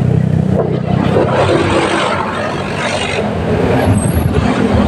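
Motorcycle engine running while riding on the road, with a broad rush of noise over it for about two seconds in the middle before the steady engine note returns.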